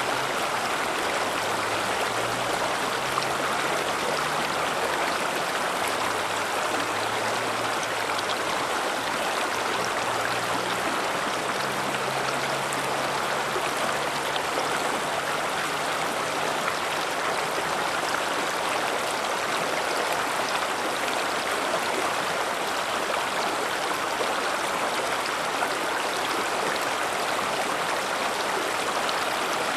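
River water flowing steadily, an even rushing noise with no breaks. A faint low hum sits underneath for the first two-thirds.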